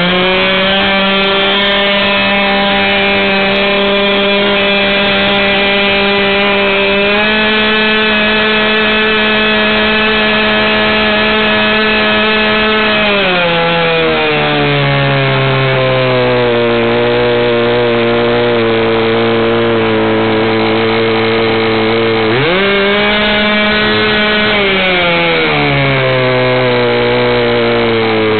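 Norvel .15 ball-bearing two-stroke glow engine swinging an 8x4 propeller, running at high revs. It is throttled back to a lower, steady speed about 13 seconds in, opened up again sharply about 22 seconds in, and throttled back gradually near the end.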